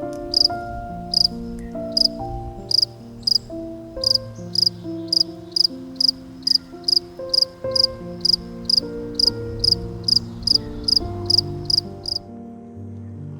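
Cricket chirping in short, high, evenly spaced chirps, about two a second, over background music with a slow melody. The chirping stops near the end.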